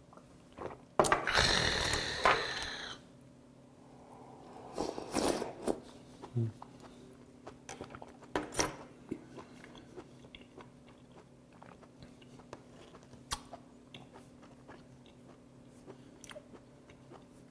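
A loud breathy exhale right after a shot of soju, then close-up chewing of raw stone sea squirt, with wet mouth clicks and smacks scattered throughout.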